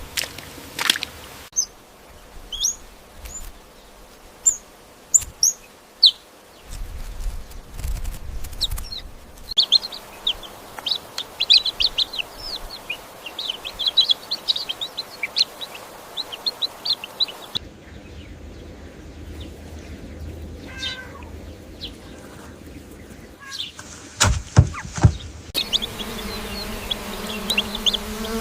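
Small birds chirping in quick, high notes, in several short clips with abrupt changes between them; a few sharp knocks a little before the end.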